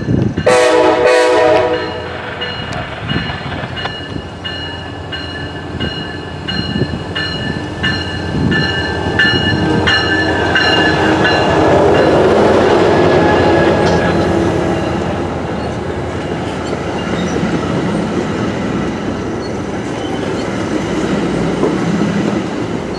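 A MARC train led by a Siemens SC44 Charger diesel locomotive sounds a short horn blast, then passes with an even run of clicks from the wheels. The rumble swells about halfway through and then eases as the train goes by.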